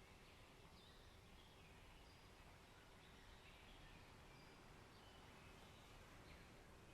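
Faint forest ambience: distant birds giving short, scattered chirps over a steady low hiss.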